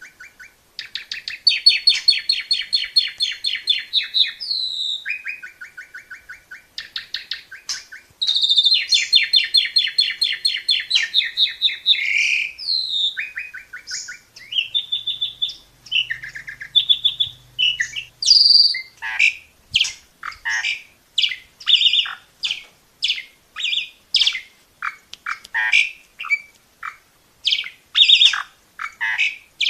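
Asian pied starling (jalak suren) in full song: a long, varied song that opens with fast rattling trills held for a few seconds at a time, then breaks into a string of separate sharp whistles and chirps at about one or two a second.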